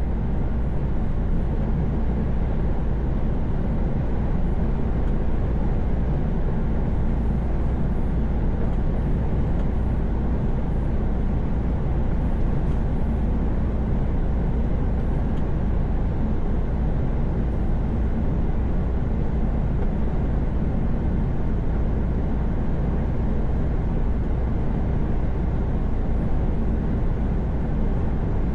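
Steady drone inside a heavy truck's cab at highway cruising speed: diesel engine hum and tyre and road noise, with a strong, even low rumble and no change in pitch.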